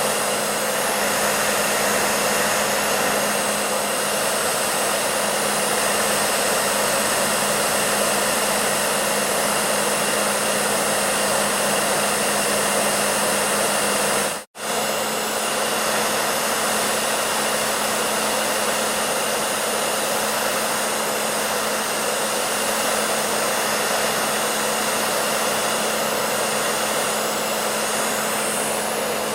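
Hair dryer running steadily: an even rush of air over a steady motor hum. The sound drops out for an instant about halfway through, then carries on unchanged.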